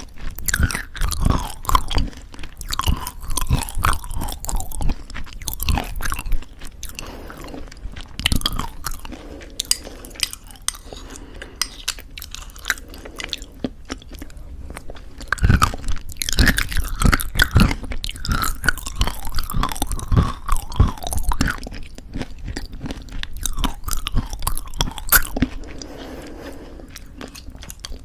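Close-miked crunchy chewing of homemade granola in thick yogurt: dense crackling bites, with a softer, wetter stretch midway before the crunching picks up again.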